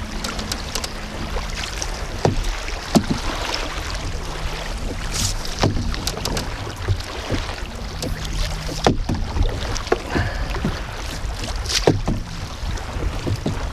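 Canoe drifting on wind-driven water: a steady wind rumble on the microphone, with water splashing and sharp knocks against the canoe now and then.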